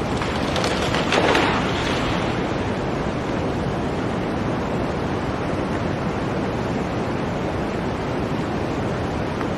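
Blizzard wind blowing, a continuous rush of noise with a stronger gust about a second in.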